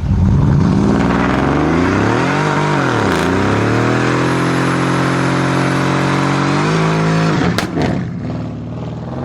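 Sports car engine being revved while standing: the revs swing up and down once, are then held high and steady for a few seconds, and drop away, with two sharp cracks from the exhaust as the throttle closes.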